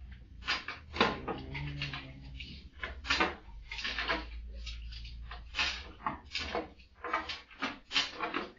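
A dog scrabbling and pawing at bedding: irregular scratching and rustling strokes, a few a second, with a brief low moan about a second in.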